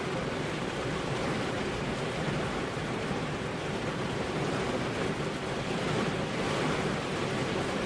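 Steady heavy rain with wind, an even, unbroken rushing noise.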